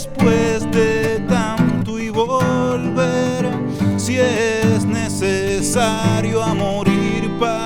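Live acoustic-guitar-led song playing without words: strummed and plucked guitar chords under a bending, wavering melody line.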